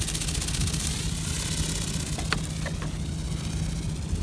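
Remote-controlled toy bird's motor and flapping wings whirring in flight: a hissing buzz with a fast, even flutter that starts suddenly, with a couple of light clicks about halfway through.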